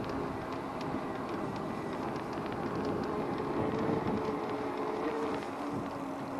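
Traffic and road noise heard from a moving e-bike, with a steady hum that rises slightly in pitch midway and then settles again.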